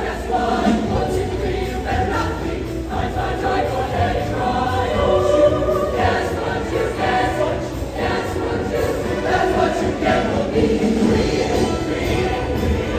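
Show choir singing together over instrumental accompaniment, many voices at once.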